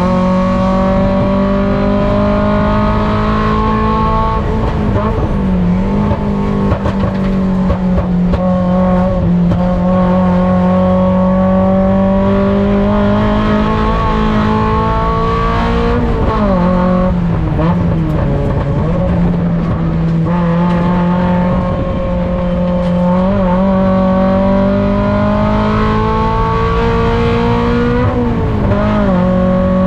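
Mazda Miata ITA race car's four-cylinder engine heard from on board, running hard under load with its pitch holding or slowly rising over long stretches. The pitch drops and wavers briefly about five seconds in, around the middle, and near the end, as it slows for corners and shifts.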